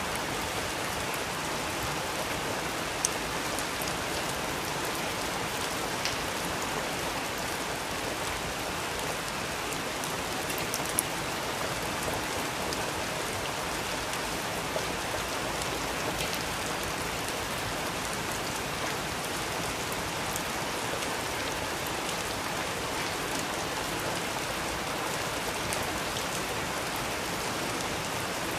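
Steady rain falling, a continuous even hiss with a few sharper drop ticks now and then.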